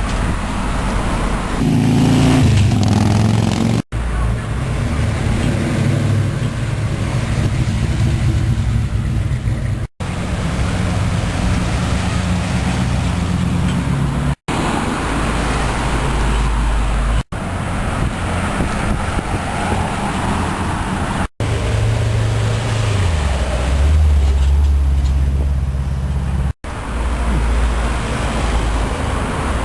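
Old American cars' engines running as they cruise in city traffic, a low engine note over road noise. About three quarters through, the note drops lower and deeper. The sound breaks off for an instant six times.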